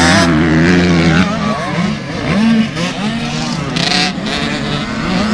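Motocross motorcycle engines revving, several at once, their pitch repeatedly rising and falling as the riders work the throttle.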